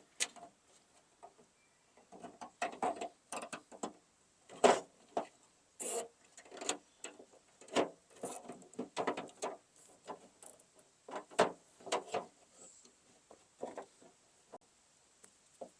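Irregular clicks, taps and rattles of parts being handled and fitted while working on a pickup tailgate's latch mechanism.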